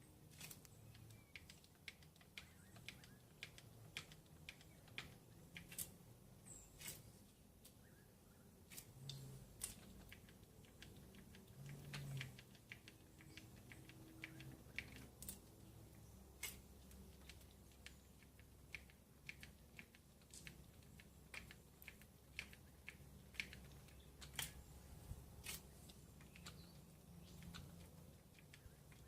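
Mostly quiet, with scattered, irregular sharp clicks and light taps over a faint low hum.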